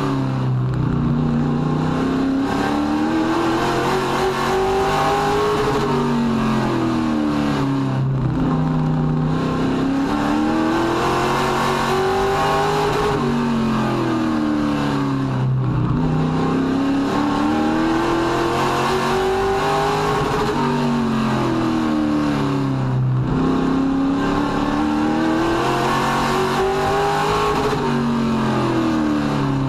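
Race truck engine at racing speed, its pitch climbing steadily for several seconds and then dropping sharply, over and over about every seven to eight seconds, as it accelerates down each straight of a short oval and lifts for each turn.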